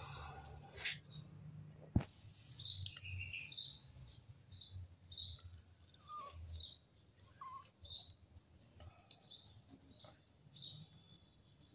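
Small birds chirping: a steady string of short, high chirps, about two a second, with one sharp click about two seconds in.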